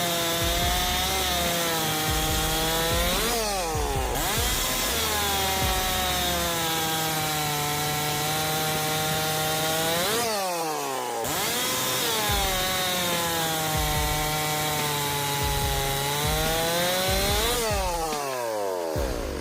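STIHL 064 single-cylinder two-stroke chainsaw running at high revs while cutting wood. Its engine note wavers, then falls steeply and climbs back three times, several seconds apart.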